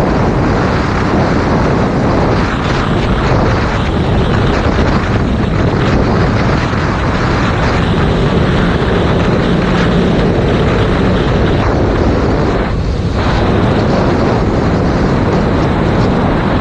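Heavy wind rushing over an action camera's microphone on a motorcycle at riding speed, a steady loud roar that all but buries the Yamaha MT-07's parallel-twin engine.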